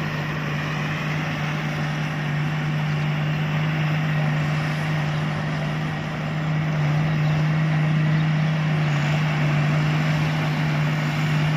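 Combine harvester running steadily, a constant low engine hum under broad machine noise, getting a little louder about halfway through.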